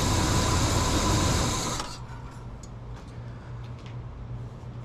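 Oldsmobile V8 with a Quadrajet four-barrel carburetor idling a little roughly while still cold, then switched off about two seconds in, leaving only a faint low hum.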